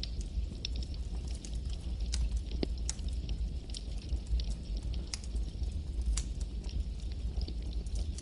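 Campfire burning: a steady low rumble of the flames with irregular sharp crackles and pops of the wood.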